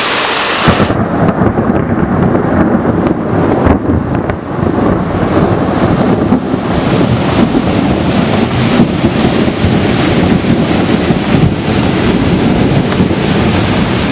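Heavy summer downpour: a loud, steady roar of rain, turning into a deeper rumble from about a second in.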